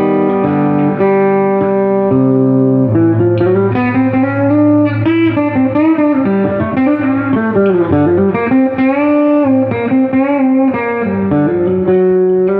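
Electric guitar played through a 1968 Fender Super Reverb tube amp. Held chords first, then a single-note lead line with string bends, settling on a sustained chord near the end.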